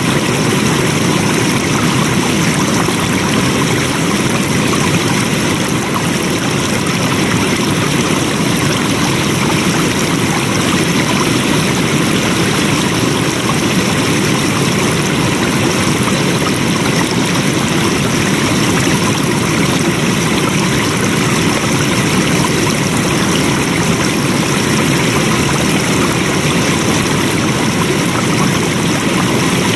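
Flowing water, a steady, even rush that does not change.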